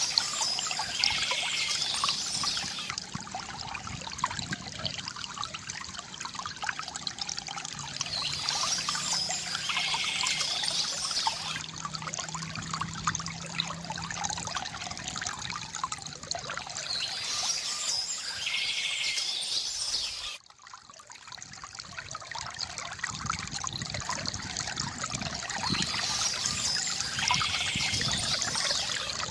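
Water trickling and pouring steadily from a bamboo fountain, with birds chirping in short spells about every eight seconds. The sound drops out briefly about twenty seconds in.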